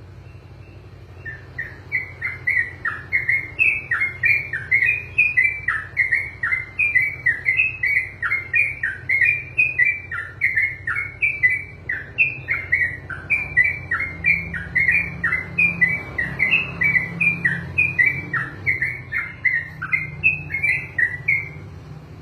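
Sooty-headed bulbul (trucukan) singing one long, unbroken run of short whistled notes, several a second. The song starts about a second in and runs for about twenty seconds before stopping near the end.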